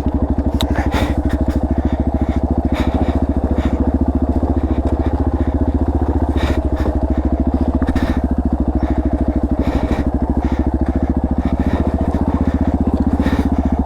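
Dirt bike engine running steadily at idle while the bike creeps down a steep, rocky hill. Scattered clicks and knocks sound over it.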